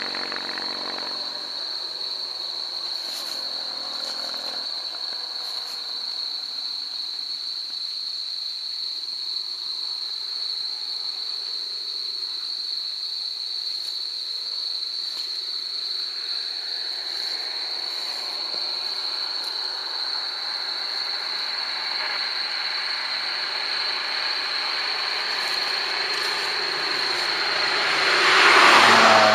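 A vehicle approaching, growing gradually louder to a peak near the end, over a steady high-pitched whine; an earlier engine sound dies away about a second in.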